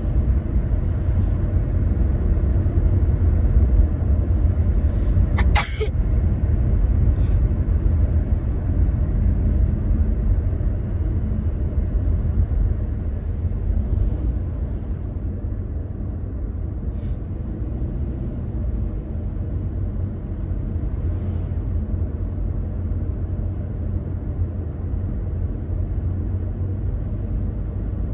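Car driving on the road: a steady low rumble of engine and tyre noise, with three brief sharp clicks.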